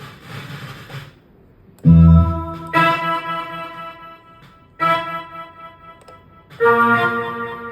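Roland XP-S10 keyboard playing four chords, each struck and then fading. A rustling hiss sounds in the gaps between them: the faulty keyboard puts out a humming, rustling noise along with its sound.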